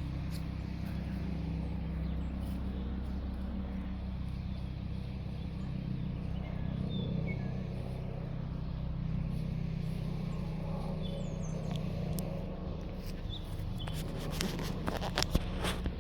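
Bell 429 twin-engine helicopter flying by: a steady low rotor throb that eases slightly partway through, with a few sharp clicks near the end.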